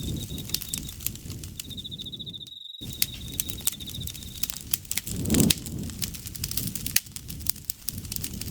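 Campfire crackling, with frequent sharp pops over a low rumble of the flames and a louder low whoosh a little past five seconds. An insect trills in a high, steady pulsing tone in two stretches during the first half. The sound cuts out completely for a moment just before three seconds.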